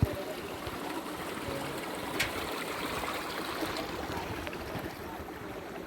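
Steady rush of flowing water, with one sharp click about two seconds in.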